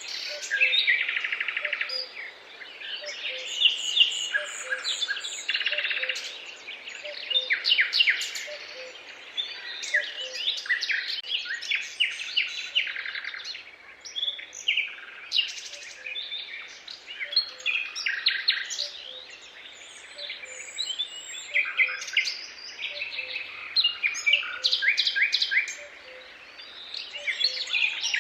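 Several songbirds singing at once, overlapping chirps and fast trills. A faint low note repeats about twice a second underneath.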